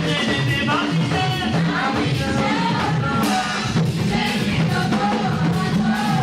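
Live church praise music: group singing over a band with a steady drum beat and bass.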